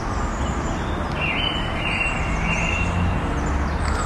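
Outdoor park ambience: a bird calls with a high, steady note from about a second in, over a steady low rumble.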